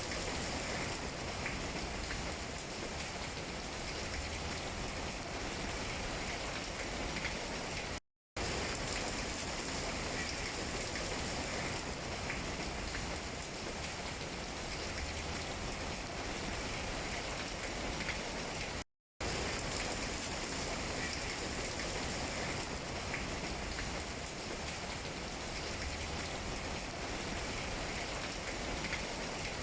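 Steady rain pattering on tree leaves, an even dense hiss of drops, that cuts out to silence for a fraction of a second twice.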